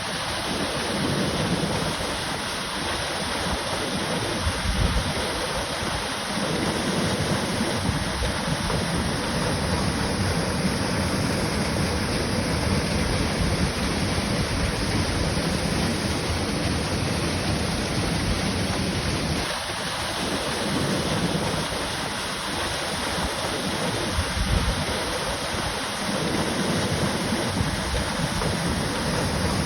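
Waterfall pouring into a pool, a steady, even rushing of water.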